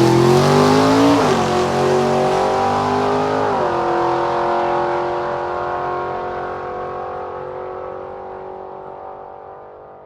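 Racing car engine accelerating hard, its pitch climbing and dropping back at two gear changes, then holding one steady note that fades out.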